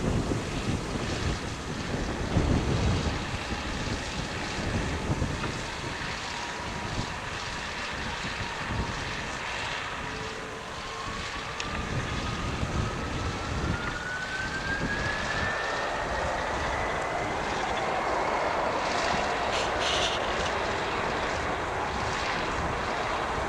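Delta Airbus A330-300 twin-engine jet airliner running its engines up for takeoff: a whine climbs steadily in pitch through the middle while the engine noise builds toward the end. Wind gusts on the microphone in the first few seconds.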